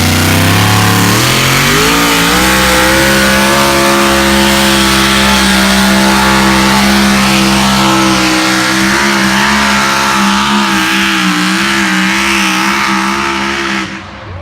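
Pulling vehicle's engine at a tractor pull, very loud, revving up over the first couple of seconds and then held at high revs with a wavering pitch as it pulls, until it cuts off near the end.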